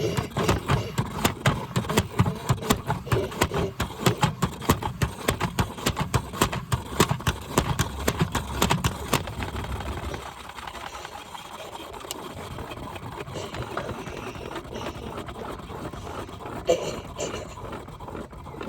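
Washing machine running, with rapid, irregular knocking and clattering for about the first half, then settling into a quieter, steadier running sound.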